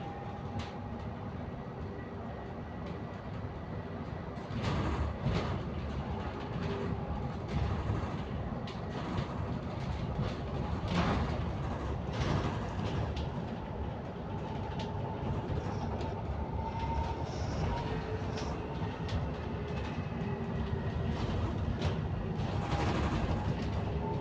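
Inside a moving double-decker bus: steady engine and road rumble with rattling and knocking from the bodywork and fittings, and a faint whine that drifts slightly in pitch.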